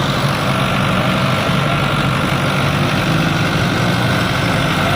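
Fiat 640 tractor's diesel engine running steadily at a low, even speed.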